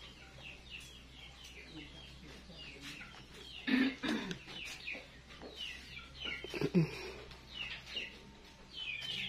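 Birds chirping over and over in short, falling chirps, with two louder, lower calls about four and seven seconds in.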